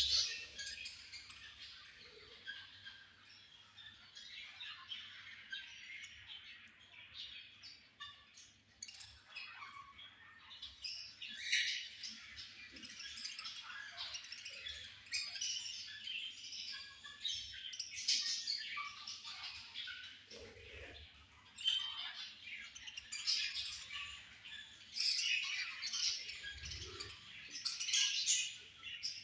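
Many budgerigars chirping and chattering at once, a dense, steady flock chatter of short high chirps and squawks that swells in places.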